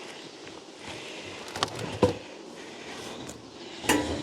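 A few short knocks and clicks of wooden beehive parts being handled as the hive is opened, over a low steady background.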